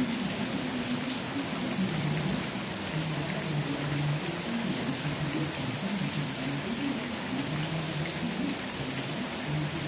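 Steady rain falling on a surface, an even hiss of many drops, with a low drone underneath that shifts up and down in pitch.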